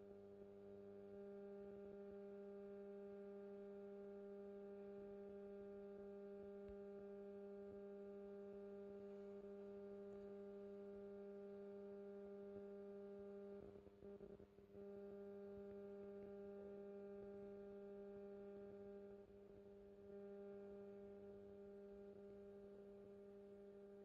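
Faint, steady electrical hum: one low buzzing tone with a ladder of overtones, briefly dropping out about fourteen seconds in.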